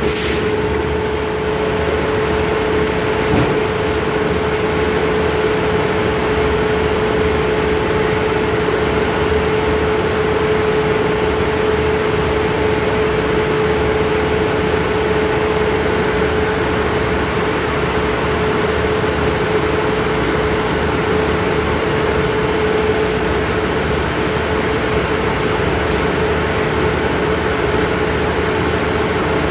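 Stationary diesel passenger train idling at the platform: a steady engine hum with a steady mid-pitched whine over it.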